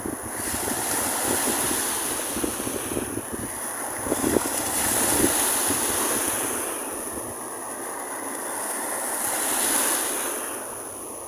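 Ocean surf breaking on a beach, the wash swelling and fading every few seconds, with wind buffeting the microphone.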